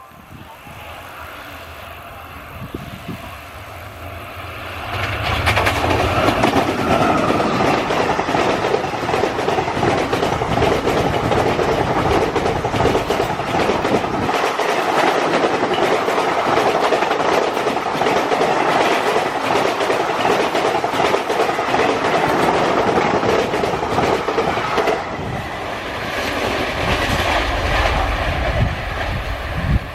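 Indian Railways train passing at speed, with the steady rumble and clatter of its wheels on the rails. The sound builds about five seconds in and eases off near the end.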